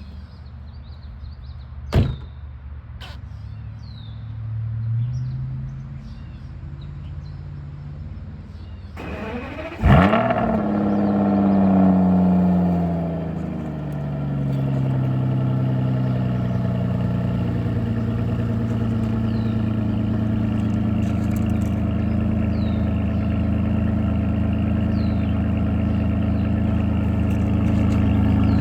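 Aston Martin V12 cold start: after a low hum and two sharp clicks, the starter cranks briefly about nine seconds in and the engine catches with a loud flare of revs. It holds a high fast idle for a few seconds, then settles into a steady cold idle. Birds chirp faintly in the background.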